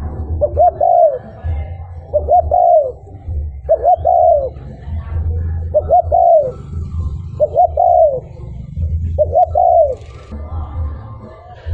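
A male spotted dove cooing its territorial song, the kind played as a decoy call. It repeats a short phrase about every second and a half, two quick notes then a longer note that falls away, over a steady low hum.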